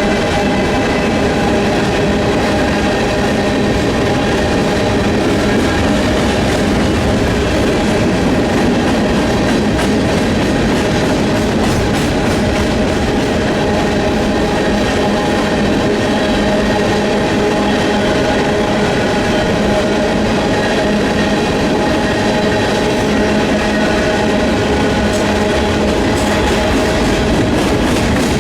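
Freight train rolling steadily past, its cars' wheels clicking over the rail joints.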